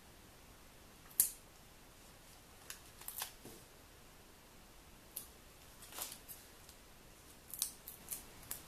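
Paper craft pieces being handled: a scattering of short, light clicks and paper rustles, about eight of them, as a layer is fitted onto the card.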